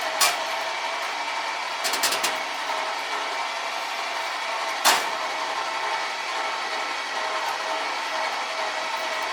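A motor or engine running steadily, with a few sharp metallic clanks about two seconds in and one loud knock about five seconds in.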